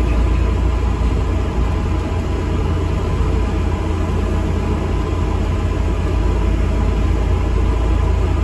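Inside an ADL Enviro 400 MMC double-decker bus on the move: a steady, deep engine and road rumble fills the cabin.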